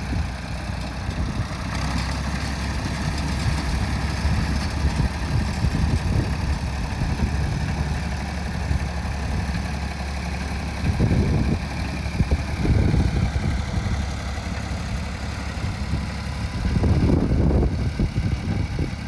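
An engine running steadily, growing louder for a couple of seconds about halfway through and again near the end.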